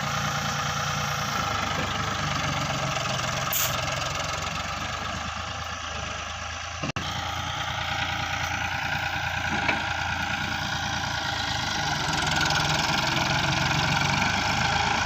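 Tractor diesel engine running steadily, with a very short break in the sound just before the middle, and a little louder over the last few seconds.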